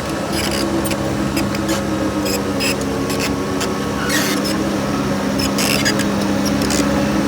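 Diesel engine of heavy earthmoving equipment running at a steady speed, with frequent short, sharp high-pitched squeaks and clicks.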